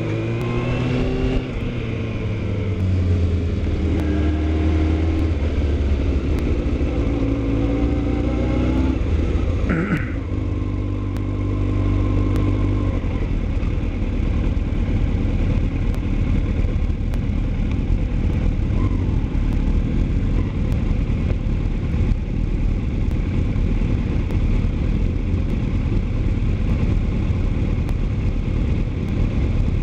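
Motorcycle engine heard while riding: it revs up and drops back in pitch through gear changes, with a sharp drop about ten seconds in, then settles into steady cruising, buried under a rush of wind and road noise.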